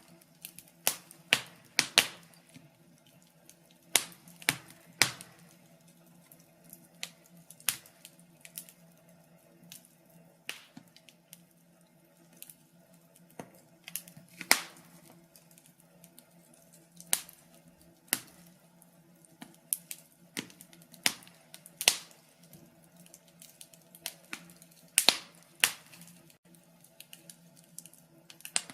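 Wood fire crackling in a fireplace: sharp, irregular pops and snaps, one to three a second, over a faint steady low hum.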